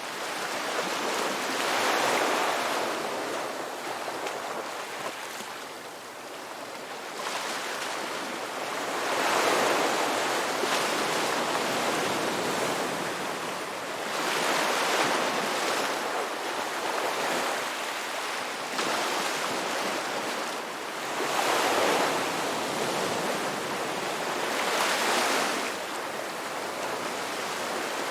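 Ocean surf on a beach: waves breaking and washing in, swelling and easing about every three to seven seconds.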